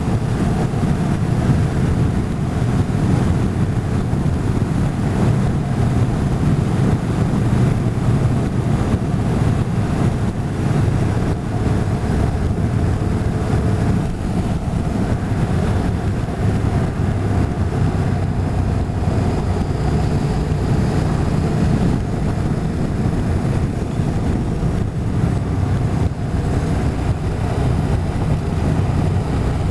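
Motorcycle engine running at road speed, its note shifting a few times, under heavy wind noise on the microphone.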